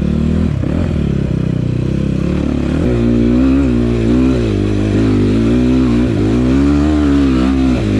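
Enduro motorcycle engine running under load with the throttle worked on and off, its pitch wavering up and down. About three seconds in it revs higher and louder.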